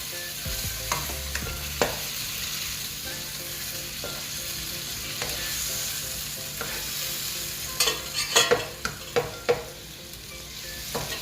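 Pork and tomato sauce sizzling in a hot pan while being stirred, with a cluster of sharp scrapes and taps of the utensil against the pan about eight seconds in.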